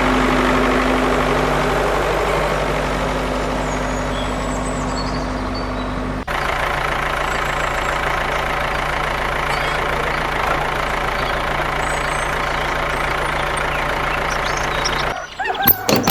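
An engine idling steadily, with a low even hum. There is an abrupt cut about six seconds in, after which the idle carries on. In the last second the idle drops away and a burst of sharp clicks and knocks takes its place.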